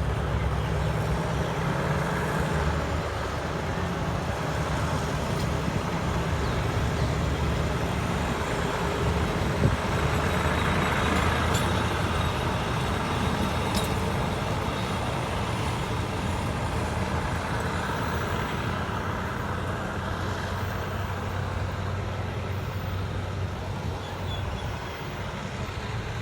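Diesel train running: a steady low engine drone under a wash of rumbling running noise, with one brief knock about ten seconds in.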